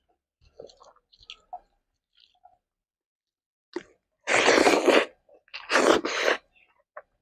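Close-miked eating by hand: soft, faint sounds of fingers mixing rice on the plate, then two loud bursts of chewing a mouthful of rice, egg and chickpea curry.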